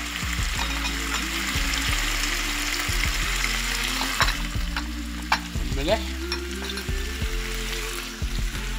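Chicken breast cubes sizzling steadily in hot oil in a frying pan, with a few light clicks about halfway through.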